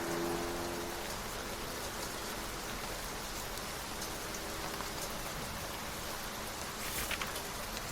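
Steady rain falling on a surface, with a brief rustle near the end: a book page being turned.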